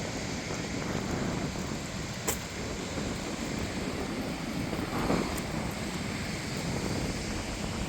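Steady wind noise on the microphone over the low rumble of cars, with a sharp click a little over two seconds in and a brief louder swell about five seconds in.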